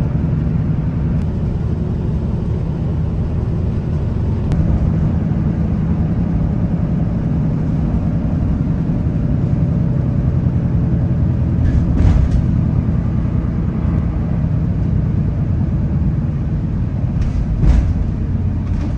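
A road vehicle running, a steady low engine rumble with two short knocks, about twelve seconds in and near the end.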